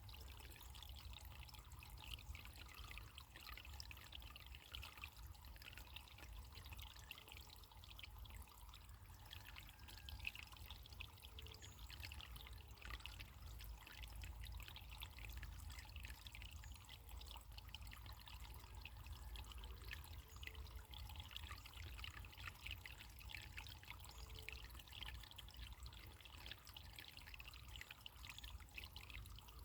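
Faint, steady trickle of running water, like a small stream or brook, with a low rumble beneath.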